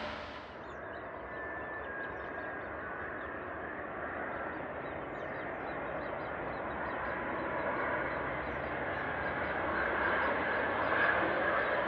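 Airbus A350-1000 airliner, its Rolls-Royce Trent XWB-97 engines heard from afar on approach to land: a steady rushing noise that grows slowly louder.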